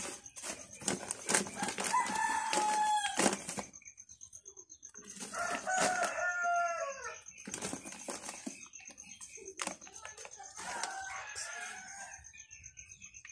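A rooster crowing three times, each crow a drawn-out call that falls at the end, over a steady high-pitched pulsing background.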